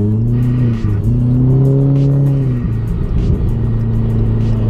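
Hyundai Genesis Coupe's engine heard from inside the cabin: the revs jump up, dip briefly, climb again under acceleration, then fall back about three seconds in to a steady highway drone.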